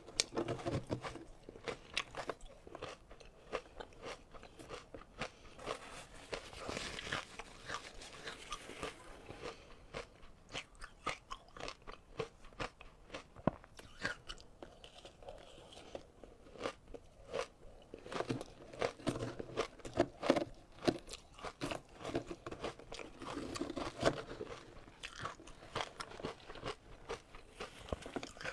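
Ice being bitten and chewed: close-up, irregular crunching and crackling of ice between the teeth, in denser, louder bouts every few seconds.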